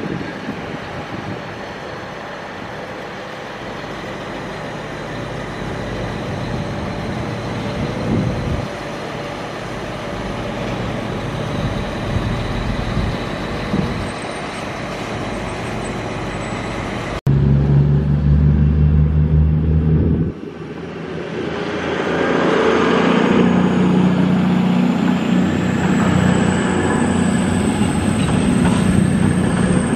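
Transport for Wales Class 197 diesel multiple unit running past with a steady engine rumble. After a sudden cut a little past halfway, a heavy low hum from a second train, then an Avanti West Coast train passing close by, getting louder with a whine that rises in pitch as it gathers speed.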